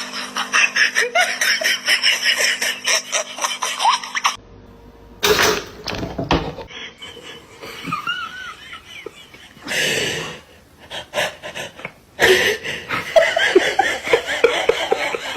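People laughing hard in quick repeated bursts. The laughter cuts off abruptly and returns near the end, with brief quieter noises in between.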